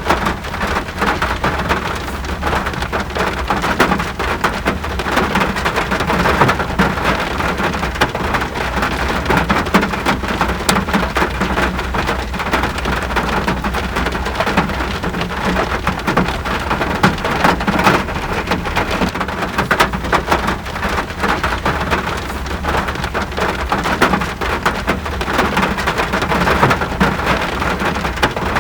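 Steady rain, a dense even hiss of many drops striking a surface, with a steady low rumble underneath.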